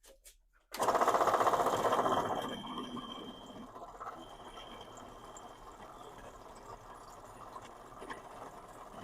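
A shop power tool starts abruptly about a second in, loudest for the first two seconds or so, then keeps running steadily at a lower level.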